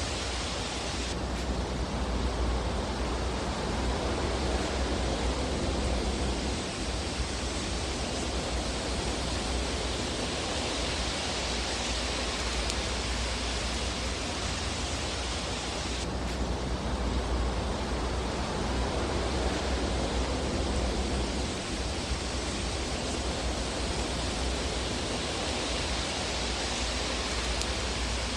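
Fireplace ambience: a steady rushing hiss over a low rumble, without distinct crackles standing out. The hiss shifts suddenly in tone about a second in and again about halfway through.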